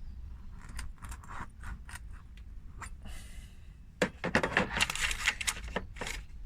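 Tyre plug kit's rasp tool being worked in and out of a puncture hole in a car tyre: a run of scraping, rasping clicks that grows busier and louder about four seconds in.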